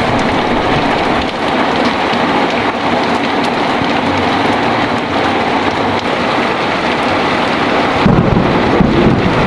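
Heavy rain falling steadily, with a low rumble of thunder building near the end.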